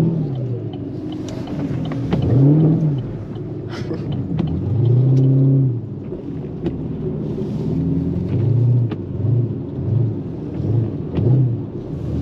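Chevrolet Camaro SS's 6.2-litre V8 heard from inside the car while driving, its note rising and falling with the throttle, with several short surges in the second half.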